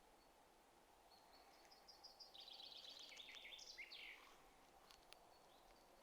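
A songbird sings one phrase of rapid high notes that step down in pitch and end in a quick downward flourish, over a faint steady hiss. A few faint clicks follow about five seconds in.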